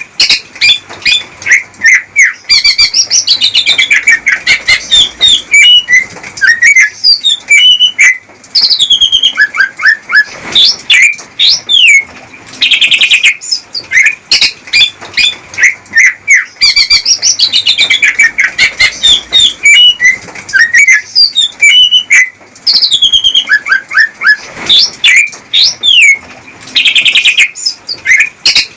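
Male cucak ijo (greater green leafbird) singing its courtship song to a female: a loud, continuous run of rapid chirps, whistled notes, quick trills and sweeping slurs. The same song sequence repeats about every fourteen seconds, as in a looped lure recording.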